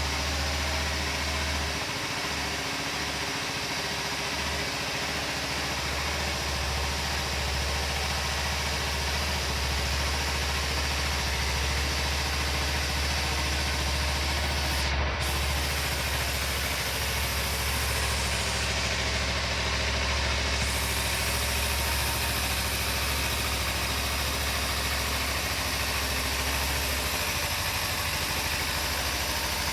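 Kawasaki Ninja 250 (EX250L) parallel-twin engine idling steadily.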